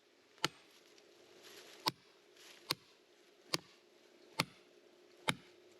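Hammer blows: six sharp strikes at a steady pace of a bit more than one a second, each a short, hard knock.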